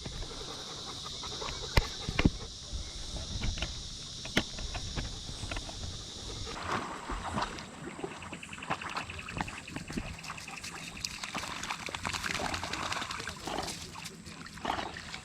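Insects chirring steadily until about halfway, with a rapid pulsing trill in the middle and scattered clicks, knocks and rustles.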